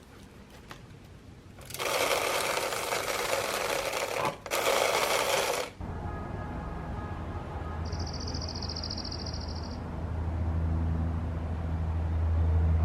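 A small motor-driven machine running in two loud bursts, the first about two and a half seconds long and the second about a second, followed by a steady low hum.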